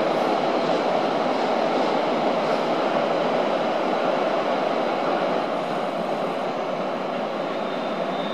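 Electric freight train of the Rhaetian Railway, a red locomotive hauling tank wagons, passing at a distance: a steady running noise with no distinct wheel clicks and a faint high whine that grows a little stronger near the end.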